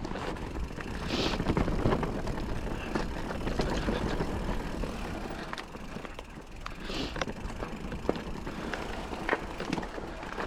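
Calibre Triple B mountain bike riding a dry, loose trail: tyres rolling over loose dirt with a steady rumble, and frequent clicks and knocks from the bike.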